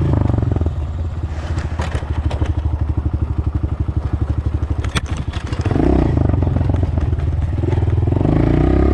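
Dirt bike engine running at low revs with its individual firing pulses plain to hear, with a few sharp clicks, the loudest about five seconds in. From about six seconds in the engine is opened up and pulls harder at higher revs.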